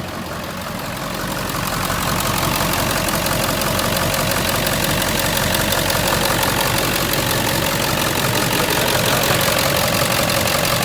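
Ford 7.3 Powerstroke turbo-diesel V8 running at idle. It grows louder over the first two seconds, then holds steady.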